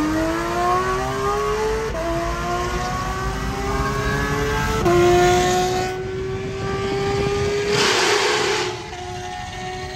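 Audi RS6 Avant's twin-turbo V8 pulling hard under full throttle, heard from inside the cabin. The engine note climbs in pitch, with upshifts about two and five seconds in. Near the end there is a brief burst of rushing noise, and then the engine note drops away.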